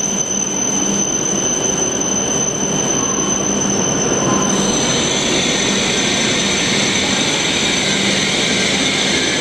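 E7-series Shinkansen standing at the platform, its onboard equipment running with a steady hum and a thin, steady high whine. About halfway through, a broader rushing noise swells up over it.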